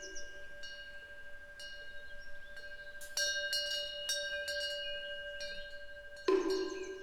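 Korean temple eave wind bell (pungyeong) ringing as its clapper strikes it several times, each strike renewing a long, steady ringing tone. A bird chirps faintly in the middle. Near the end a wooden moktak is struck once with a hollow knock.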